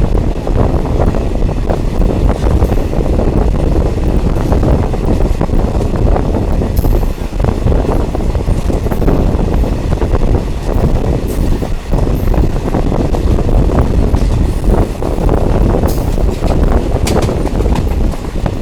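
Diesel multiple unit train running, heard from on board: a steady loud rumble of wheels and engine, with scattered rail clicks and a few brief high-pitched squeals.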